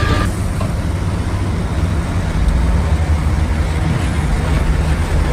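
Shantui bulldozer's diesel engine running with a steady, low drone.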